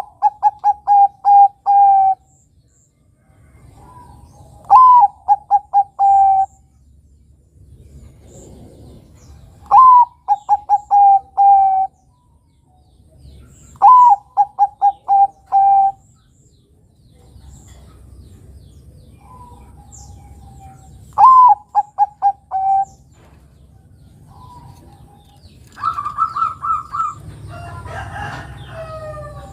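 Bangkok-type zebra dove (perkutut) cooing. Each phrase is a rising opening note followed by a quick string of short, even notes, and the phrase repeats about every four to five seconds. Near the end there is a higher, different call with some rustling noise.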